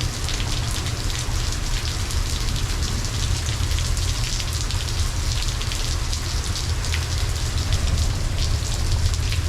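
Steady heavy rain falling, a dense hiss of drops pattering on surfaces, with a constant low rumble underneath.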